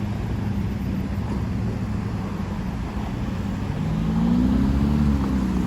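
Road traffic rumbling, with a motor vehicle's engine growing louder and rising then falling in pitch about four to five seconds in as it passes.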